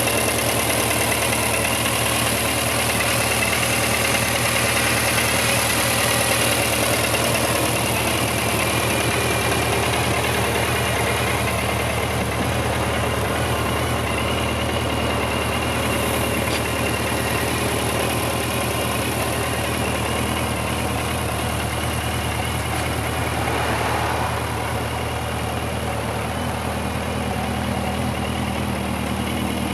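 Suzuki GSX1400's air/oil-cooled inline-four engine idling steadily, slightly quieter in the last few seconds.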